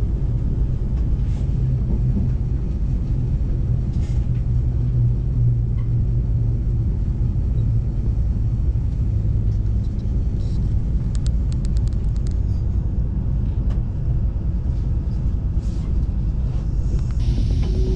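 Passenger train running, heard from inside the carriage: a steady low rumble with a low hum that fades out about ten seconds in as the train nears its stop. A steady tone comes in near the end.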